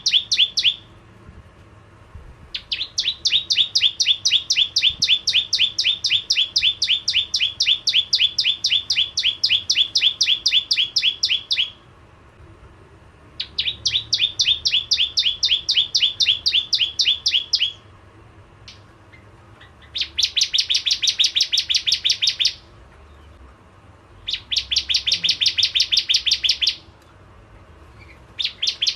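Bar-winged prinia (prenjak jawa) singing in the vigorous 'gacor' style: long trains of rapid, evenly repeated high chip notes, about five a second, in bouts of a few seconds broken by short pauses. The last few bouts are denser and brighter.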